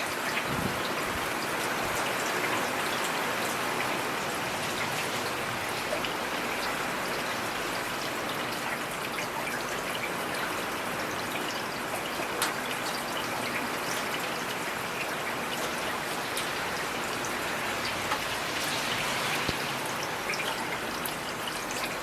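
Heavy rain falling steadily, a dense even hiss with individual drops ticking here and there.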